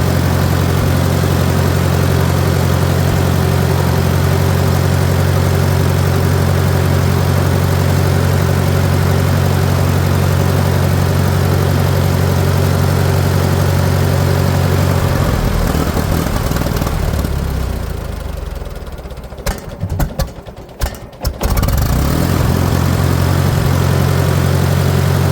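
Farmall 400's four-cylinder gasoline engine idling steadily; the tractor will only run on choke. About sixteen seconds in the engine sound falters and falls away for a few seconds, with a few sharp pops, then picks back up to steady running.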